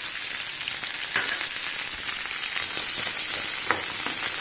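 Cashews, almonds, onion, green chillies, black peppercorns and cumin seeds sizzling steadily in hot oil in a frying pan, with a couple of light clicks about one and four seconds in.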